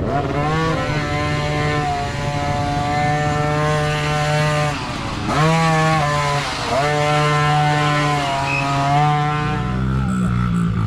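Small youth dirt bike engine revving hard and held at high revs. Its pitch drops off and sweeps back up twice in the middle as the throttle is chopped and reopened. Near the end a second, lower engine sound takes over.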